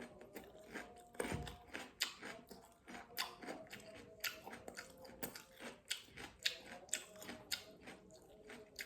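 Close-miked chewing while eating fish: wet mouth smacks and clicks, a few a second, at an uneven rhythm.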